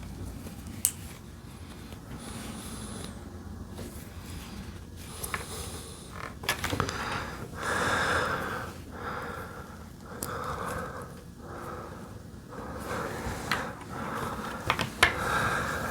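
Lego bricks being handled and pressed together: scattered small plastic clicks and taps, with close breathing through the nose.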